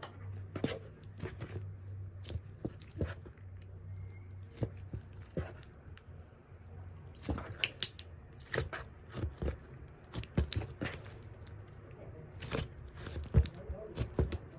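Ice slime's crusty top layer crackling and crunching as it is pressed and squished, in irregular sharp clicks that come thicker in the second half.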